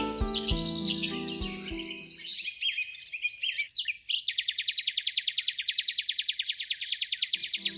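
Gentle background music with songbirds chirping over it; the music stops after about two and a half seconds, leaving only the birds. About four seconds in, a bird starts a long, fast, even trill that runs to the end.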